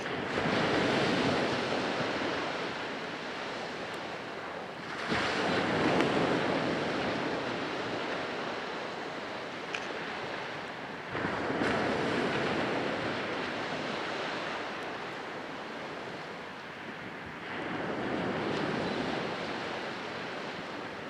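Ocean waves breaking on the shore: four surges about six seconds apart, each coming in suddenly and slowly fading.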